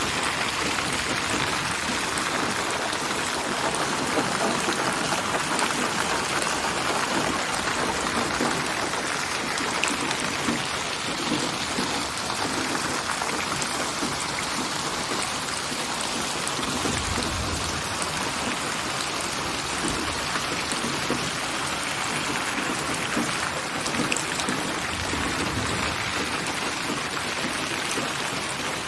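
Steady rain made from layered rain recordings and spatialized binaurally (8D), so the rain seems to surround the listener and shift in place. There is a short low rumble about halfway through and another near the end.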